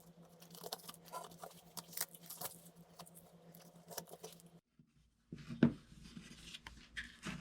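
Tape being peeled and pulled off a glued-up wooden piece: a string of small crinkling, tearing and rustling sounds. They break off in a short gap about two-thirds of the way through, then a few sharper rustles and knocks of handling follow.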